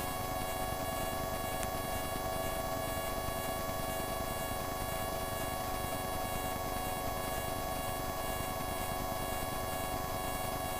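Steady drone of a light aircraft's engine heard through the headset intercom, an even hum with hiss and a faint regular pulsing a few times a second.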